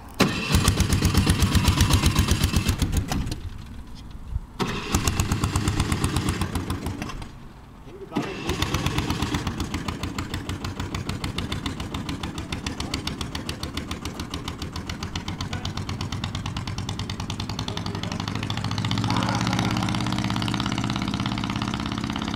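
The small combustion engine of an Eco-marathon prototype car starting and running in rapid even pulses. It cuts out briefly twice in the first eight seconds, then runs steadily as the car pulls away.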